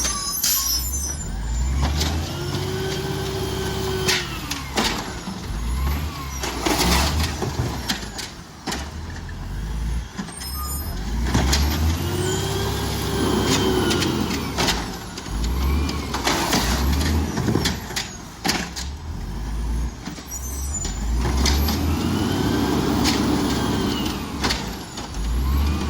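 Garbage truck working a pickup: the engine revs up and falls back three times as the hydraulics run, with knocks and bangs of metal and bins and short hisses of air.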